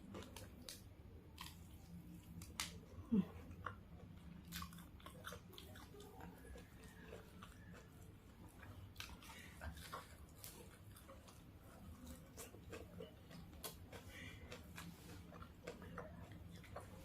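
Close-up eating sounds: a person biting and chewing fried chicken, with scattered crisp crunches and mouth clicks. One louder sharp sound about three seconds in.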